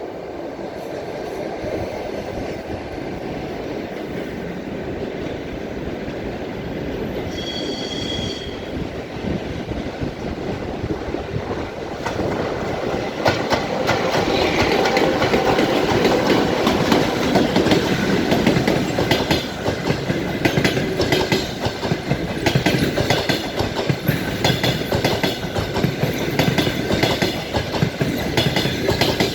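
A passenger train hauled by a ChS7 and an EP2K electric locomotive passing, its noise growing louder. From a little under halfway through, the wheels clatter rapidly over the rail joints. A short high tone sounds once about 8 seconds in.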